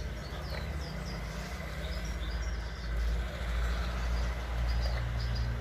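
Small songbirds chirping repeatedly in short high notes over a steady low rumble, with the rumble the loudest sound.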